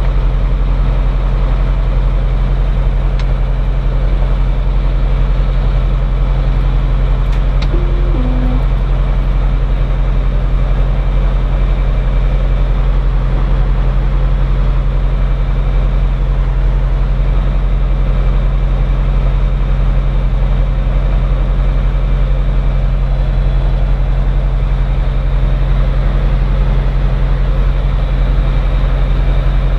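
Cirrus SR20's four-cylinder Lycoming engine running steadily, heard from inside the cockpit. A short two-note falling tone sounds about eight seconds in.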